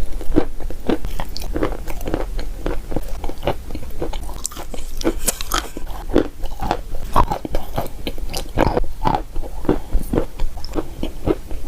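Crunchy chalk being bitten and chewed close to the microphone: a run of sharp, irregular crunches and crackles, several a second.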